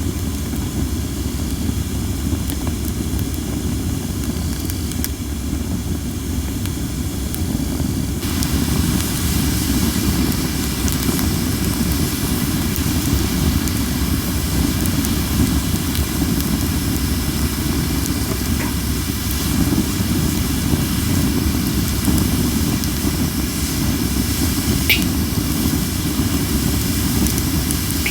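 Cherry-wood campfire burning with a steady hiss from under-dried wood and a few sparse crackles, the sharpest near the end, under a heavy rumble of strong wind on the microphone. The hiss grows louder about eight seconds in.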